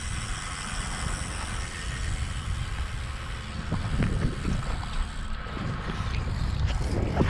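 Wind buffeting the microphone on a moving road bicycle: a low rumbling rush that swells in gusts, growing stronger toward the end.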